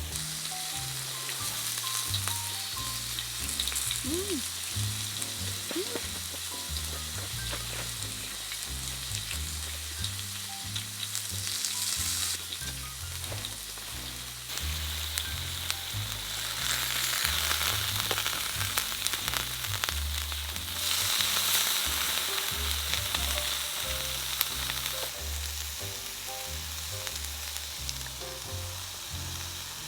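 Beef and scallops sizzling in a hot pan, with a steady hiss and scattered crackles. The sizzle grows louder about halfway through and eases off again a few seconds later.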